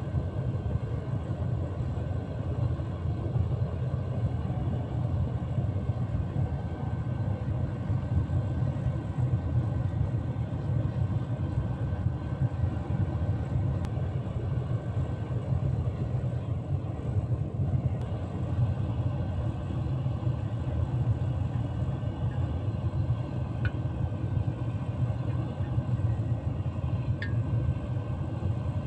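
Fan-blown gas-fired foundry furnace running: the burner and blower make a steady, low rumble that does not change, with a couple of faint ticks near the end.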